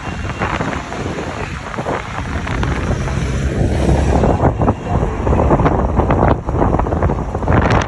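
Strong wind buffeting the microphone in gusts, a loud low rumble that grows stronger about halfway through.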